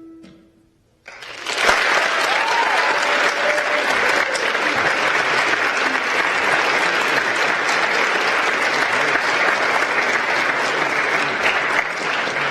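An audience applauding, breaking out about a second in as the last notes of the music die away.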